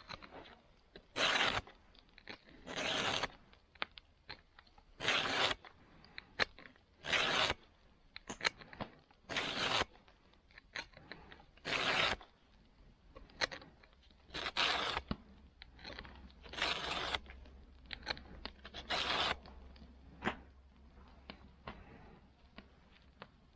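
A file rasping across the teeth of a saw in single strokes about every two seconds, with light clicks in between as the file is set back and the saw shifted: a saw being sharpened.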